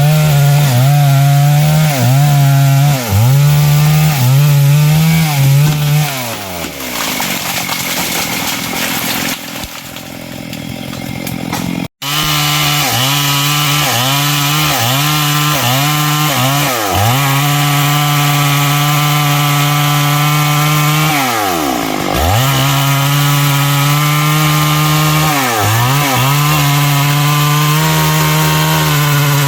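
Stihl MS 382 two-stroke chainsaw running at full throttle through wood, its pitch dipping briefly several times as the chain bogs in the cut. About six seconds in it winds down to a lower, quieter note, then after a sudden break it is back at full throttle.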